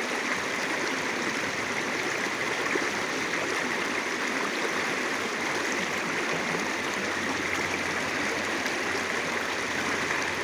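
Clear-water river flowing: a steady, even rush of water.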